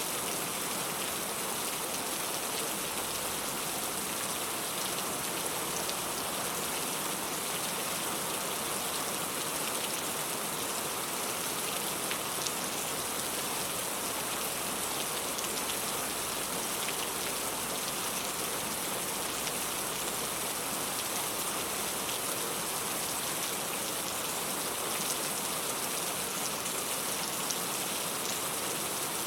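Steady rain, with drops pattering on a surface in scattered small ticks.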